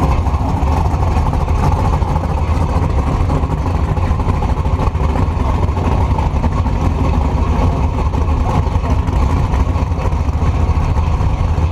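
Truck engine and exhaust running steadily, picked up by a camera mounted on the back of the truck: a loud, even low rumble with no clear revving.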